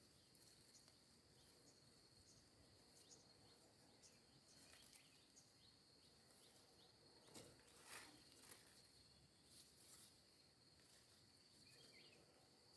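Near silence, with a faint, steady high-pitched insect trill and a few soft clicks about seven to eight seconds in.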